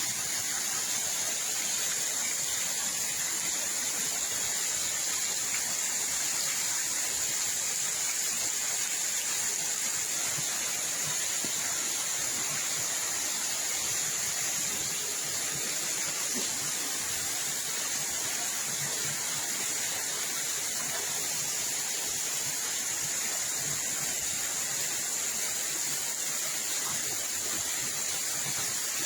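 Steady rushing hiss of water from heavy rain and floodwater.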